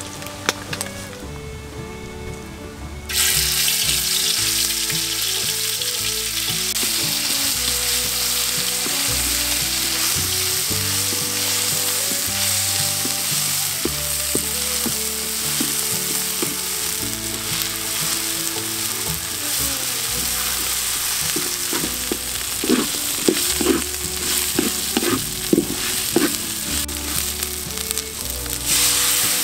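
Chili paste, dried red chilies and garlic sizzling in hot oil in a pan, starting suddenly about three seconds in. A spatula stirs and scrapes them, with a run of sharper scraping clicks near the end.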